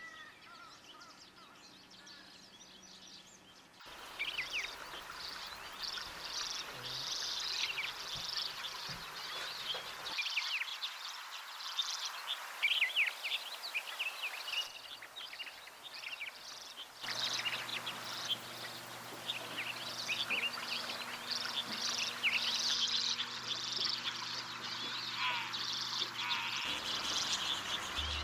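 Many small birds chirping and twittering in a dense chorus of quick, high calls, fainter for the first few seconds. The background noise changes abruptly several times.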